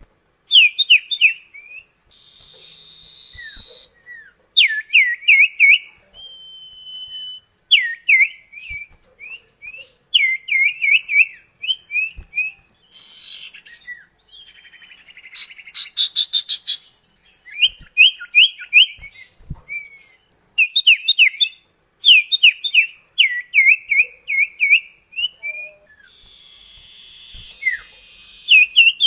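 Common iora (cipoh kacat) singing in quick bursts of sharp down-slurred chirps that stop and start every second or two. Raspy buzzing phrases and a thin, long-held high whistle come in between.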